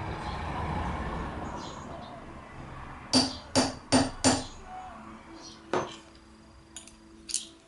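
Metal tools or gearbox parts knocking together in sharp, ringing metal-on-metal strikes: four quick ones about three seconds in, one more a little later, and two lighter taps near the end. A rustling noise comes before them at the start.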